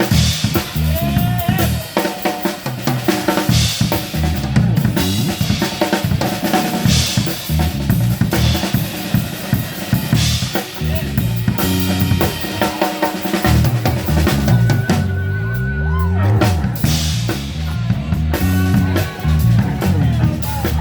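Live band playing an instrumental passage, the drum kit prominent with bass drum, snare and rimshots over a low stepping bass line.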